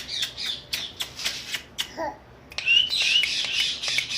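A pet parrot vocalising: a quick run of sharp clicks for the first two seconds, then, after a brief pause, a busy run of high squeaky chattering calls.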